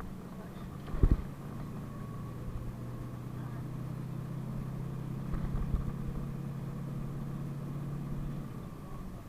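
PAZ-32054 bus engine running steadily while the bus drives, heard from inside the cabin; the engine note eases off near the end. A sharp knock comes about a second in and a few more knocks come about five and a half seconds in, as the bus body jolts.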